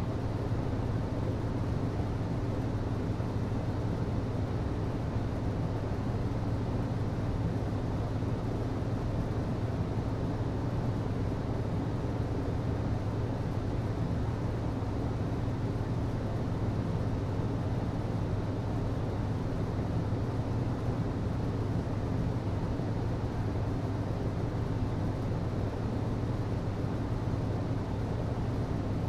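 HVAC system running: a steady low hum with an even rush of air noise over it.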